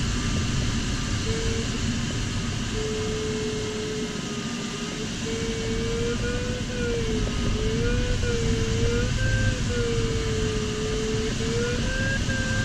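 Glider variometer's audio tone wavering up and down in pitch as the climb rate changes, with a couple of short gaps early on, over steady airflow noise in the LS4 sailplane's cockpit.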